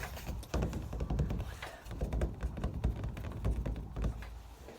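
Fast, irregular ASMR tapping and handling right at the microphone: a dense run of dull, deep thumps mixed with sharp clicks, loud against the quieter whispering around it.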